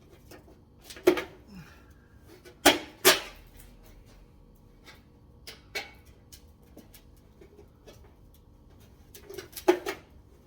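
Thin sheet-metal dryer vent pipe being flexed and worked together at its snap-lock seam: a few sharp metallic pops and clanks, two close together about three seconds in and another near the end, with quieter rustling between.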